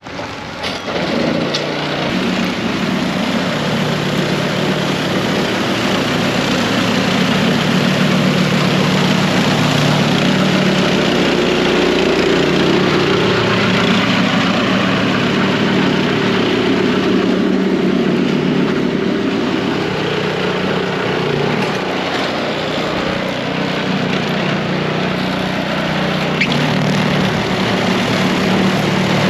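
Snow blower engine running steadily at working speed.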